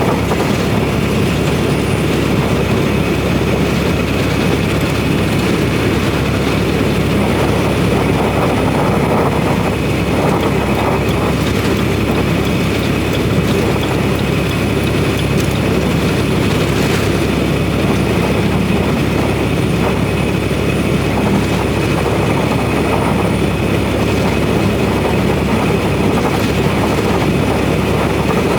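Steady engine and road noise inside a semi truck's cab while driving.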